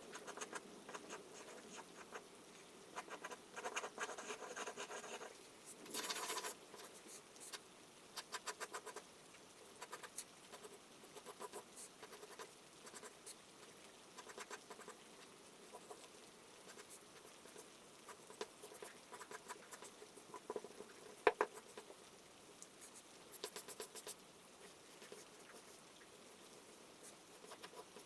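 Charcoal scratching and stroking on paper in irregular quick bursts, over a faint steady hiss, with one sharp tap about three quarters of the way through.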